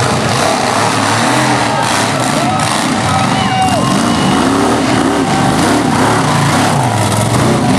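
Monster truck engines revving loudly, their pitch rising and falling again and again over a dense background roar.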